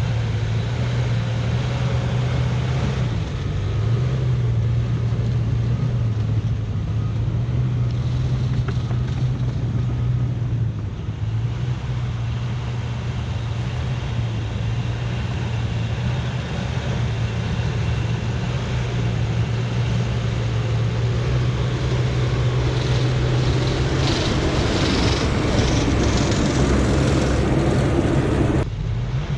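CAT bulldozer's diesel engine running steadily as it works dirt. Rattling and clanking build up in the last few seconds and cut off suddenly near the end.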